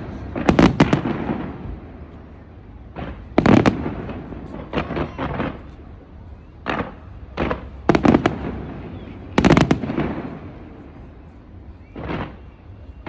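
Fireworks display: about eight loud bangs from aerial shells bursting, at uneven gaps of one to three seconds and some in quick pairs, each followed by a rumbling echo.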